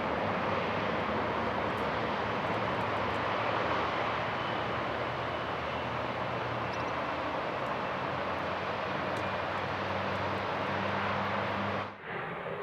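Jet airliner engines running loud and steady as the plane moves on the runway. The sound breaks off suddenly near the end.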